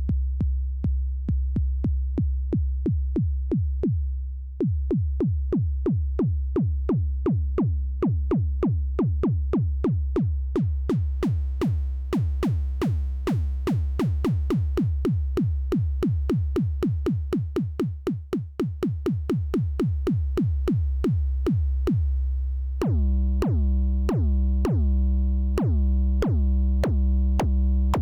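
Elektron Syntakt's BD Modern digital kick drum engine playing a steady run of bass drum hits, about four a second, with no effects. Its tone and decay shift along the way, and in the last few seconds each kick rings on longer with more overtones.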